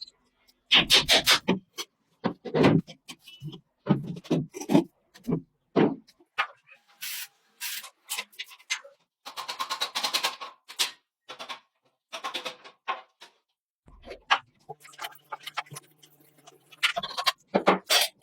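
Hand work in a workshop: intermittent scraping and rubbing strokes broken up by short knocks and clicks, with gaps of quiet between them.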